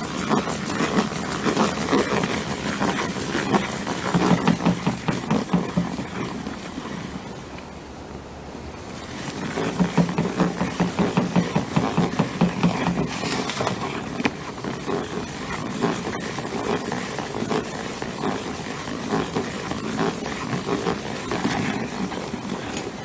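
IKEA TOKIG plastic salad spinner being spun hard by hand, a loud whirring rattle of rapid clicks, spinning water out of freshly rinsed cloth liners. It eases off briefly about seven seconds in, then spins up again.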